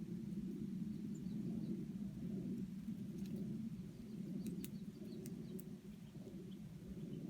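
Small birds chirping in short, quick high notes over a steady low rumble, with a few sharp clicks in the middle.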